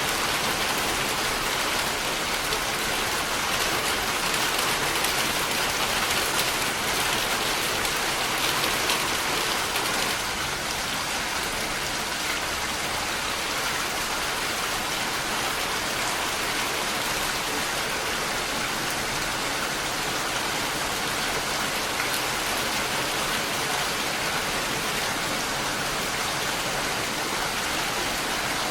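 Steady rainfall: a dense, even hiss of many drops falling on surfaces, easing slightly about ten seconds in.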